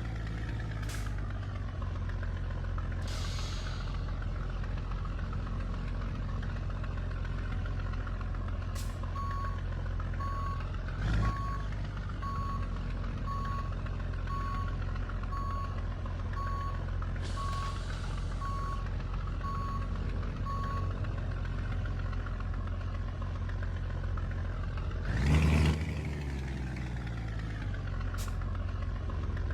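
Scania truck's diesel engine running steadily at low revs while a reversing alarm beeps about once a second for some twelve beeps. There is a short hiss of air in the middle, and the engine revs up briefly and drops back near the end.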